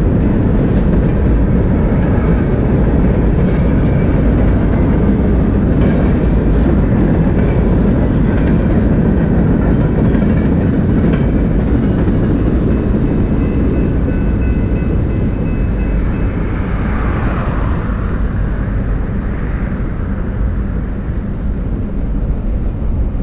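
BNSF freight train rolling past on the track, a loud steady noise that eases a little after about 16 seconds as the end of the train goes by.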